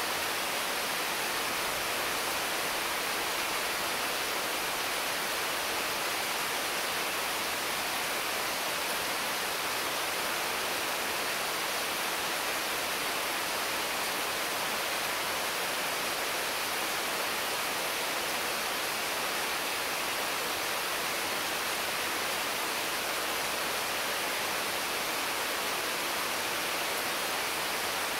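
Intense rain falling steadily on mango and papaya trees, an even hiss with no single drops or other events standing out.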